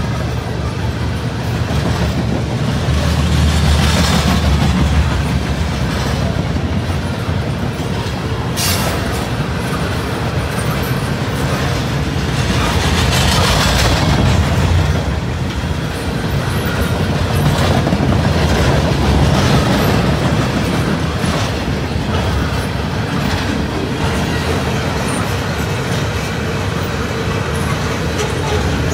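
Loaded steel-coil freight cars rolling past at speed: a steady rumble of steel wheels on rail that swells and eases as the cars go by.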